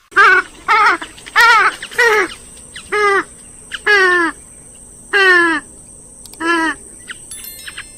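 Grey-headed swamphen giving a rapid series of loud, harsh nasal calls, about nine in quick succession, each dropping slightly in pitch.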